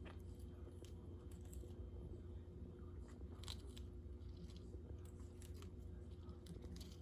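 Faint, irregular crunching and clicking of a conure biting and nibbling at food with its beak, over a steady low hum.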